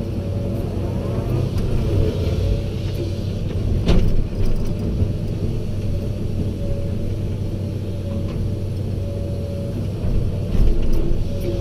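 Heavy machinery engine running steadily at a constant speed, with one sharp clank about four seconds in.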